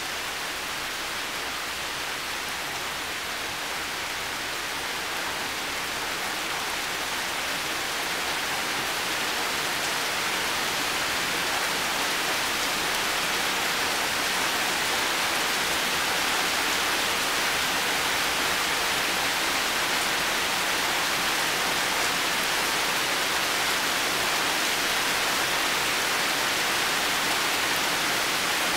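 Heavy rain falling steadily, an even hiss that swells slightly over the first dozen seconds and then holds.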